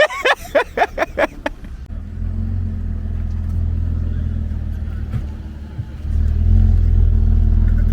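A car's engine running at low revs with a deep, steady exhaust rumble, getting louder about six seconds in as the car comes closer.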